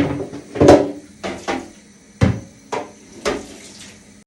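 Fridge fruit drawer knocking and clattering as it is handled and washed: about seven irregular hollow knocks, each with a short ring.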